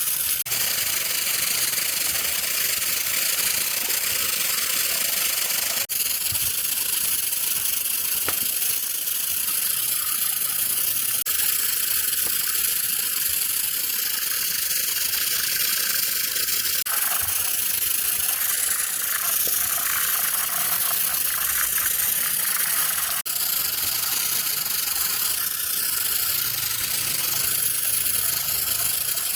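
A steady, high hiss, broken by a few abrupt cuts.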